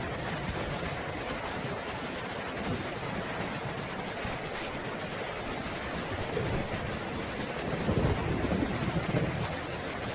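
Steady rain falling, with a low roll of thunder building in the second half and peaking about eight seconds in.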